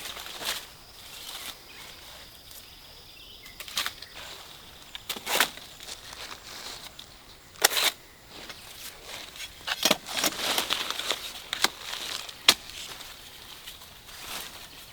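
Scattered short rustles and crackles, like dry vegetation being handled or stepped on, coming at irregular intervals, with the sharpest ones near the middle and toward the end.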